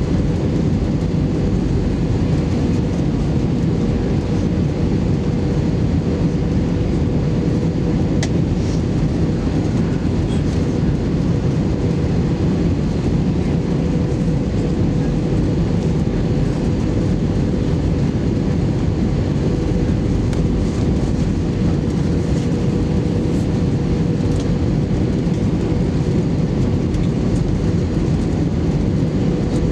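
Airbus A320 cabin noise heard from inside the cabin: the engines and airflow make a steady, even rush with a thin, steady whine over it.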